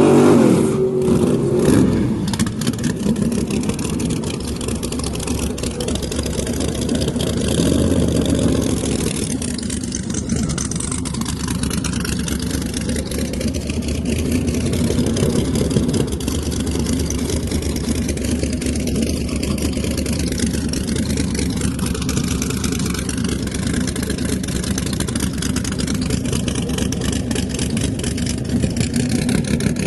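Car engine running, loudest in the first couple of seconds and then settling into a steady rumble whose pitch wanders up and down.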